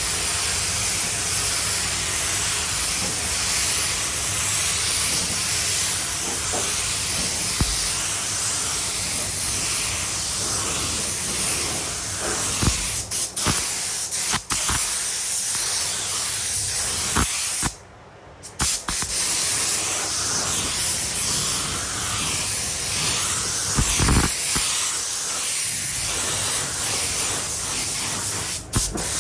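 Compressed-air paint spray gun hissing steadily as it sprays. It stops briefly a few times, once for about a second midway.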